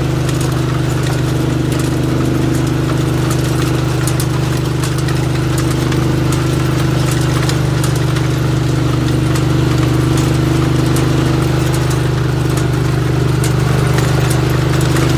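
Mini tractor engine running steadily at constant speed, a loud even hum with faint light clicking over it.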